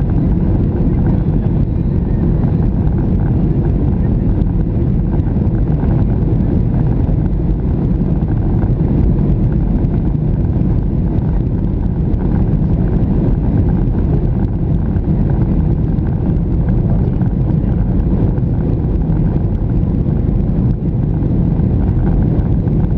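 Boeing 737-700 cabin noise in flight: a steady low rumble of its CFM56 engines and the airflow over the fuselage, with a faint steady hum, as the airliner descends toward landing.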